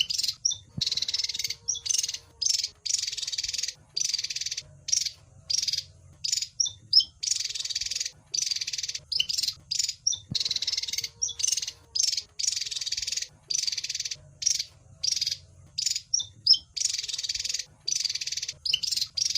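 Javan fulvetta (wergan Jawa) calling: a rapid series of harsh, rasping chatter bursts about half a second to a second long, broken by a few short whistled notes. The same passage repeats about every ten seconds, as in a looped lure recording.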